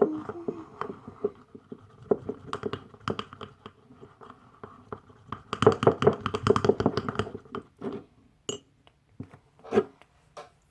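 Irregular clicks and scrapes of objects being handled, thickest for a couple of seconds around the middle.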